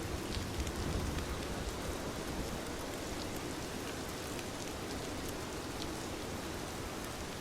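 Steady rain falling as a dense, even hiss with scattered distinct drop ticks. A low rumble sits under it for the first second and a half or so.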